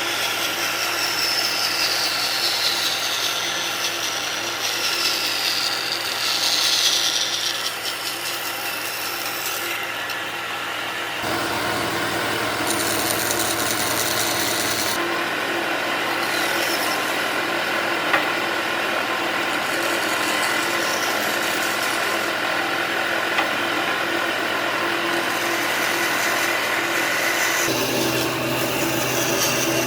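An electric woodworking tool running and working wood in several short stretches, with a steady motor whine that drops in pitch a few times in the first seconds as the tool bites. The sound changes abruptly about 11, 15 and 28 seconds in.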